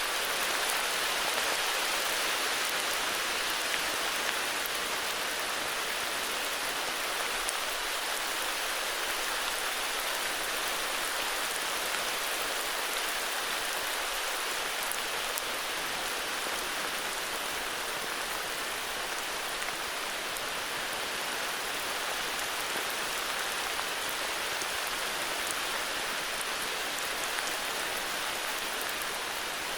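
Steady heavy rain falling, an even hiss with fine patter of drops, unchanging in level.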